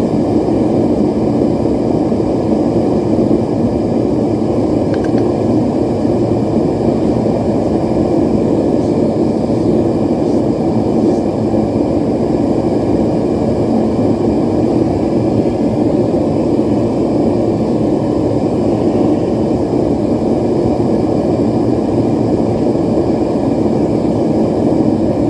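Propane forge burner running steadily and loud, a constant rushing noise with no hammer blows.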